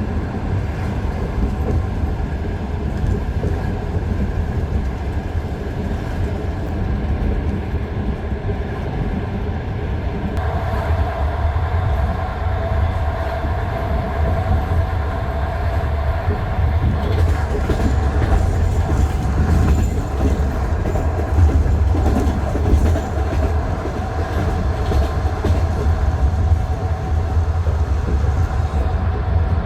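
Wheels of a passenger train clicking over the rail joints of jointed track, heard from inside the carriage over a steady running rumble. A steady tone joins about a third of the way in.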